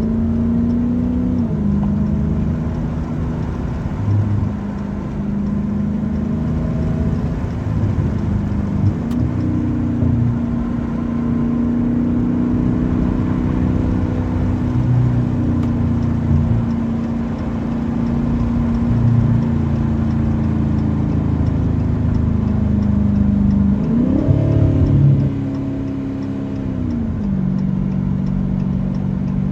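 Straight-piped 6.4-litre 392 HEMI V8 of a 2023 Dodge Challenger Scat Pack, loud while cruising, its drone shifting in pitch as the speed changes. Late on, a brief rev rises and falls.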